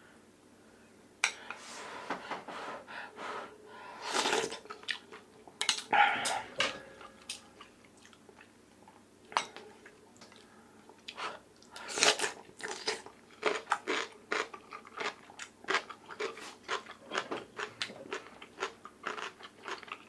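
Close-up eating sounds: spoonfuls of oyster rice soup in the first half. From about halfway in comes crisp, rapid crunching on chonggak (young radish) kimchi, several crunches a second.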